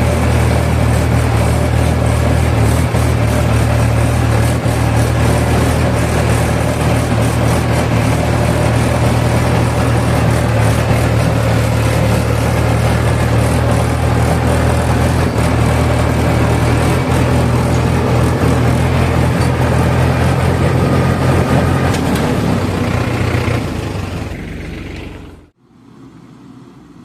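A heavy diesel engine running steadily, a deep low hum with a rough haze above it. It eases off about twenty-three seconds in and cuts off abruptly near the end, leaving a much quieter background.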